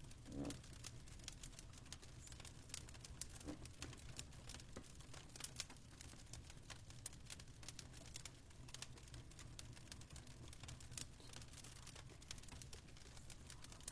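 Faint fireplace crackling: irregular sharp pops and snaps over a steady low hum.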